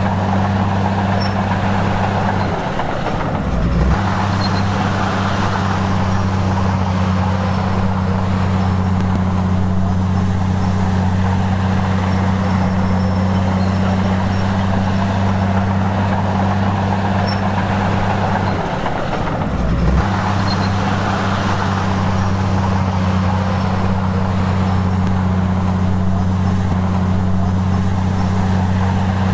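Heavy diesel engine of earthmoving equipment running at a steady, even hum. The hum dips briefly twice, about three seconds in and again near nineteen seconds, each dip ending in a short click.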